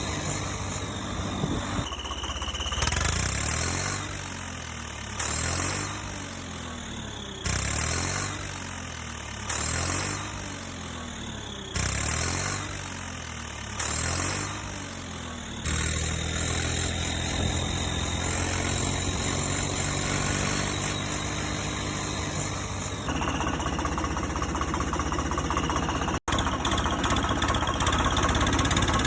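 Tractor engine revving in about six bursts roughly two seconds apart, each one dying back down. It then settles to a steady run and, after a brief cut, runs louder.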